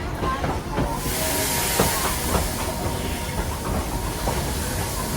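Steam locomotive No. 190 of the narrow-gauge Tweetsie Railroad letting off steam: a loud hiss starts about a second in and keeps going. Scattered knocks and clanks from the train sound under it.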